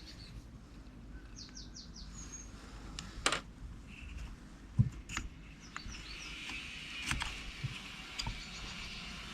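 Small birds chirping, with a quick run of four or five chirps early on and a faint chirring in the second half, over a few sharp clicks and knocks, the loudest about three and five seconds in.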